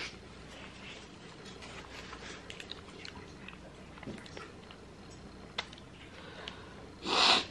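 Close-up chewing and mouth sounds of someone eating a burrito: small wet clicks and smacks. Near the end comes one short, loud hiss.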